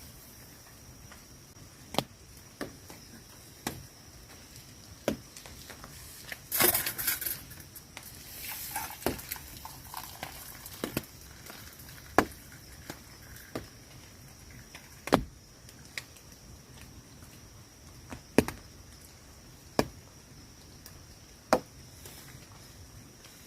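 Water drops falling one at a time onto a tent, sharp taps at irregular gaps of about a second or two over a faint steady hiss, with a brief rustle about seven seconds in.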